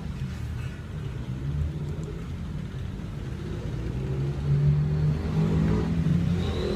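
Bosch professional electric drill's motor running on test after a broken internal power cable was reconnected. It hums low, then picks up speed and gets louder about four seconds in.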